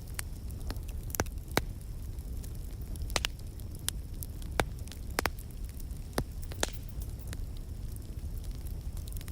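Fireplace fire crackling: irregular sharp pops and snaps, a few louder than the rest, over a steady low rumble of the flames.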